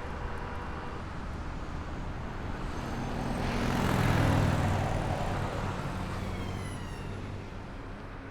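Road traffic noise, with a vehicle passing by: the rush swells to its loudest about four seconds in and then fades away.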